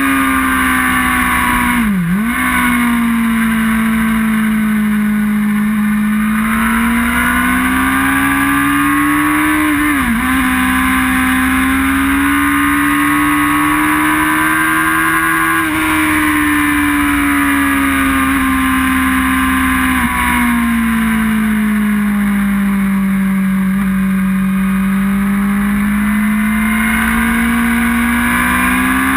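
Sport bike's inline-four engine running hard at high revs, heard from an onboard camera over steady wind rush. The engine note swells and eases with the throttle through the corners and drops sharply for a moment about 2, 10 and 20 seconds in, as at gear changes.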